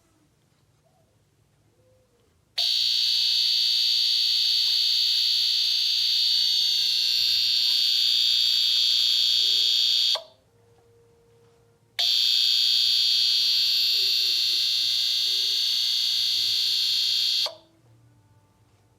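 De'Longhi mica panel space heater giving off a very loud, steady, high-pitched buzzing tone that comes on about two and a half seconds in, runs for about seven seconds, cuts off, then comes back for about five more seconds and stops abruptly. It is an unexplained noise from the heater that it had not made before.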